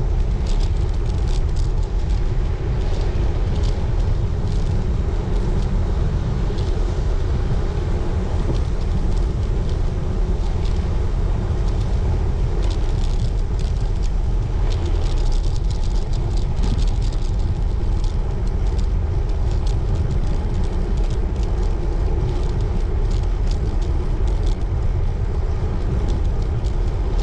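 Steady wind rumble on the microphone and tyre hum from a road bike rolling along a paved path, with scattered light ticks.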